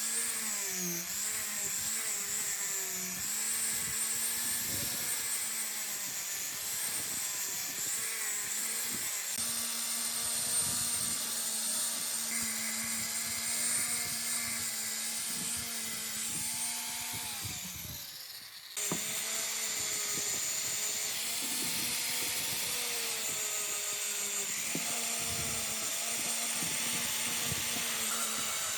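Electric power tool running, its pitch wavering as the load on it changes. About two-thirds of the way through it winds down and drops out for a moment, then comes straight back.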